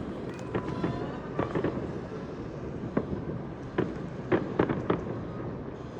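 Fireworks going off: a run of scattered bangs and crackles, with a cluster of louder bangs about four and a half seconds in.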